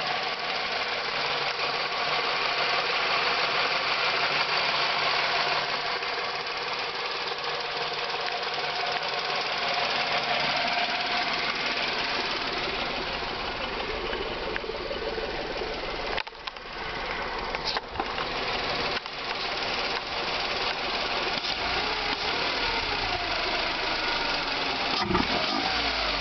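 Skoda Fabia's 1.2 HTP three-cylinder petrol engine, fitted with a sport air filter, running steadily, then revved up and down several times near the end.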